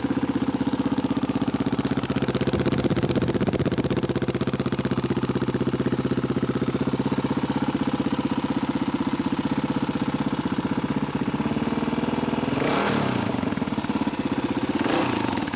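1985 Honda XR350R's single-cylinder four-stroke engine idling steadily with an even, fast exhaust pulse. Near the end it swells louder briefly twice.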